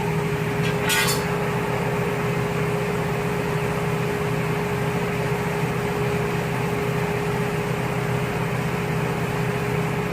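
Steady mechanical hum and whir from a running machine, with a single metallic clink about a second in.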